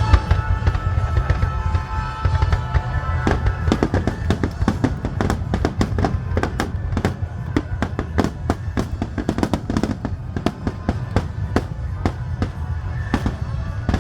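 Fireworks going off in quick succession: sharp reports, densest in a rapid crackling run from about three seconds in, over a steady low rumble, with music playing.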